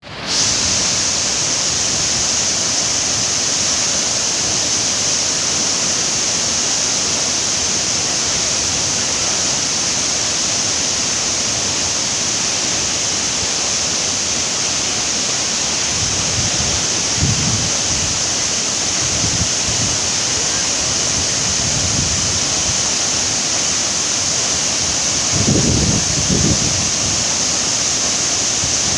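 Waterfall's falling water making a loud, steady rush. From about halfway, low gusts of wind buffet the microphone, stronger near the end.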